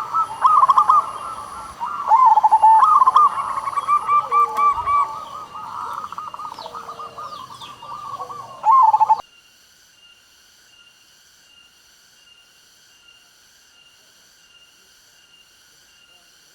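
Zebra dove (perkutut) cooing repeatedly in quick rolling phrases, with other small birds chirping faintly behind it. The calls cut off abruptly about nine seconds in, leaving only a faint, even, repeating high-pitched pattern.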